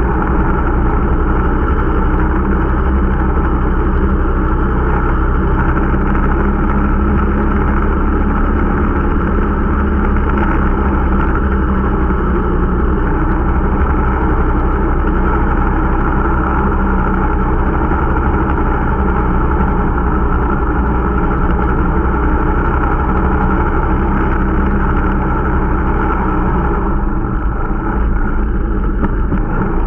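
Irbis Dingo T125 snowmobile's 125 cc four-stroke engine running steadily under way, a new engine being run in.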